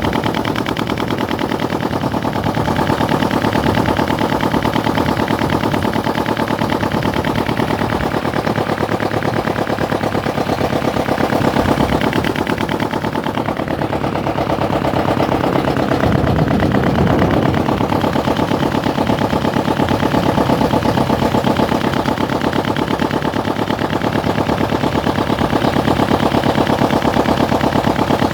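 Engine of a river ferry boat running steadily with a fast, even chugging beat.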